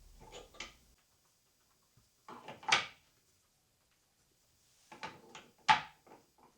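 Knocks and clatter of household objects being handled, in three short clusters. The sharpest strike comes about a second before the end.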